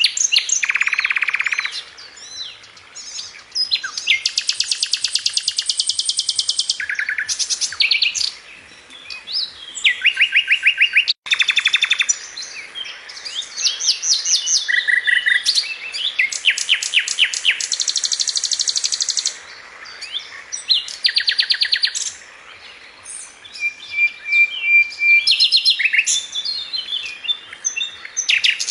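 Songbird singing a long run of phrases: fast, evenly spaced trills alternating with quick chirps and whistled notes, with short pauses between phrases.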